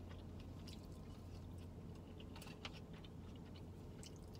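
Faint chewing, with small scattered clicks of a fork against a takeout bowl, over a low steady hum in the car cabin.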